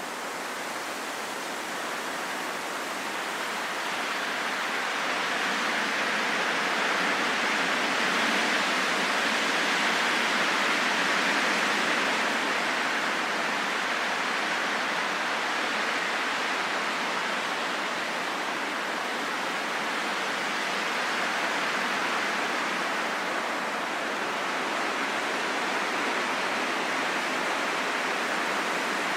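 Wind blowing, a steady rushing noise that slowly swells, strongest about ten seconds in, then eases a little.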